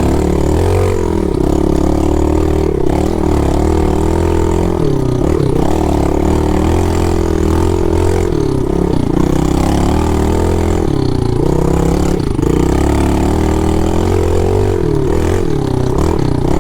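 A pit bike's small single-cylinder engine running under way. Its pitch dips and rises several times as the throttle is eased and opened again.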